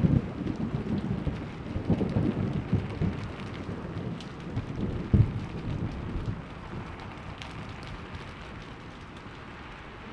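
Thunder rumbling and slowly dying away over steady rain, with a couple of sharper cracks in the first half.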